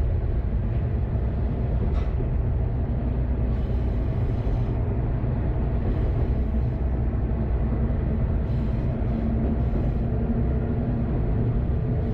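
Kanto Railway KiHa 532 diesel railcar running: a steady drone of its diesel engine with the rumble of the wheels on the track, and a single faint click about two seconds in.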